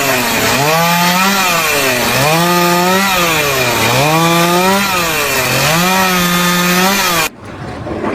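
A power tool's motor running under load, its pitch rising and falling in a steady cycle about every two seconds as if working in repeated strokes, over a harsh rasping noise. It stops abruptly near the end.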